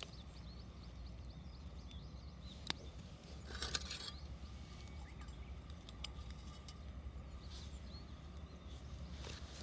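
Wood campfire crackling, with scattered sharp pops and a brief louder crackling burst a little past three seconds in, over a steady low rumble.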